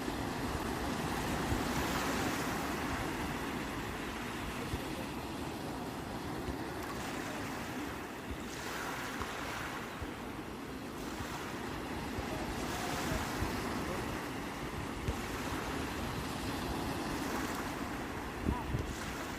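Sea waves surging and washing on the shore, the surf swelling and easing every few seconds, with wind rumbling on the microphone.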